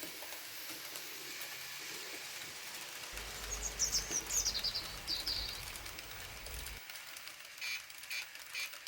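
Birds chirping over a steady hiss: a quick run of high, falling chirps a few seconds in, then three short chirps near the end, with a low hum under the middle part.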